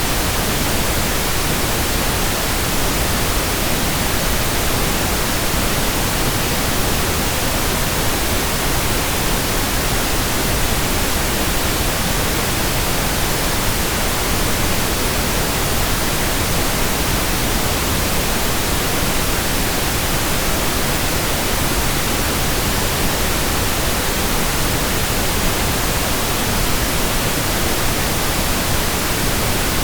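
Steady, unchanging pink noise: an even hiss spread across all pitches, fuller in the lows than white noise.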